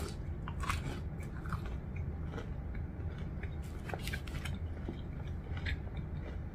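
Close-up chewing of crispy fried chicken: crunchy bites and wet mouth sounds with scattered sharp crackles, over a steady low hum.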